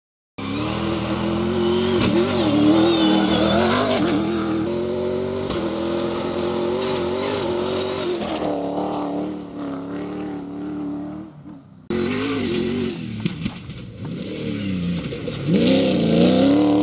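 Rally-raid car's engine revving hard under load, its pitch rising and falling repeatedly as it accelerates and shifts. It dips and cuts off sharply about twelve seconds in, then picks up again and climbs.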